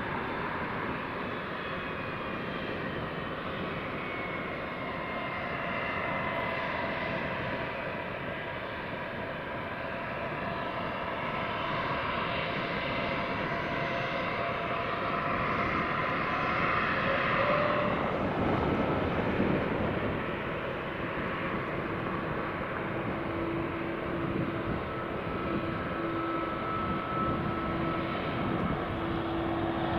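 Jet airliner engines running at takeoff power: a continuous roar with faint whining tones that glide slowly downward over the first few seconds, swelling a little past the middle and easing slightly later.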